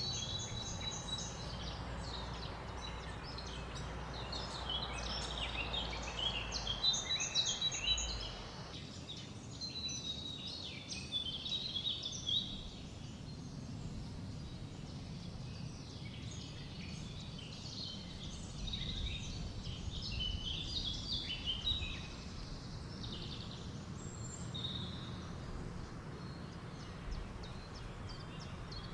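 Several songbirds chirping and trilling over a steady low rush of wind in trees. A broader hiss of wind drops away about nine seconds in, and the birdsong thins out after about twenty-two seconds.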